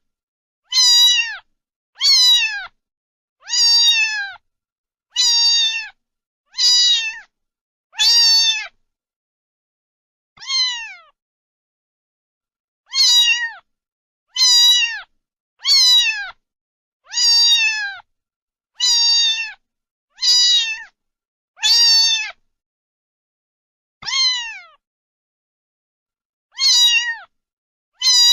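Domestic cat meowing over and over, about one meow every second and a half with a few longer pauses. Each meow is short and drops in pitch at its end.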